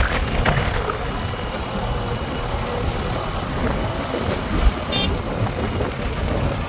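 Heavy diesel machinery engine running steadily, with a few light knocks in the first second and a brief sharp metallic rattle about five seconds in.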